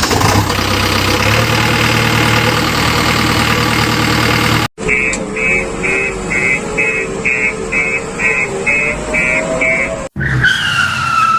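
Cartoon vehicle sound effects: a loud engine run with a skidding noise, then, after a sudden cut, short beeps a bit over twice a second over a wavering engine drone, and near the end a short falling tone.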